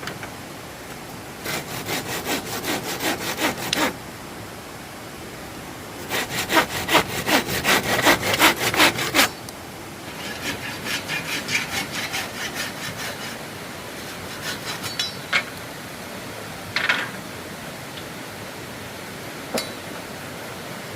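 Hand saw cutting wood in quick back-and-forth strokes, about four a second, in three runs of a few seconds each with short pauses between. A few single knocks and clicks follow near the end.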